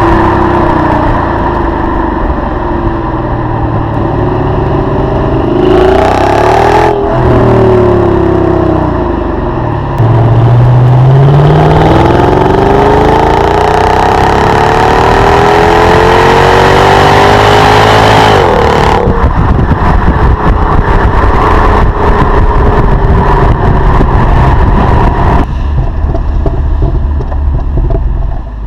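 Mercedes-Benz CLS 55 AMG's supercharged 5.4-litre V8 through its stock exhaust, revving and accelerating, the engine note rising and falling. Past a third of the way in it gets louder and climbs steadily in pitch for several seconds, then drops suddenly into a rougher, lower rumble.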